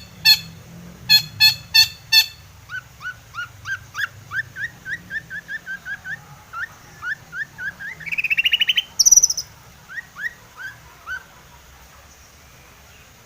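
Long-tailed shrike (cendet) singing: a few harsh, grating notes at the start, then a long run of short rising whistled notes about three a second, a fast trill and a high buzzy note a little past the middle, and a few more rising notes before it stops about two seconds before the end.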